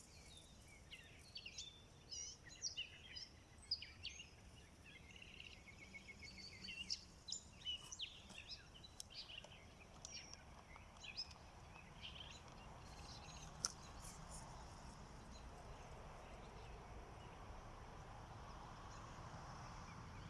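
Faint small birds chirping and twittering over a low, steady background noise. The chirps are thickest in the first half and thin out later, leaving a steady faint hiss.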